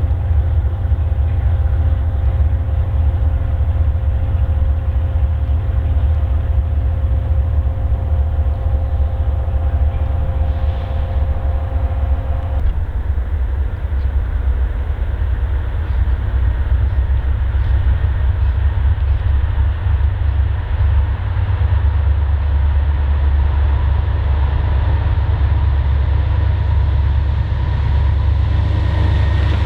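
Freight train passing with a heavy, steady low rumble. A few steady pitched tones stop abruptly about halfway through, and a higher tone builds near the end.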